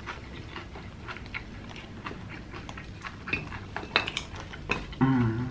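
Close-up chewing of cheesy pizza: irregular wet mouth clicks and smacks, a few sharper ones a little past the middle, and a brief vocal sound near the end.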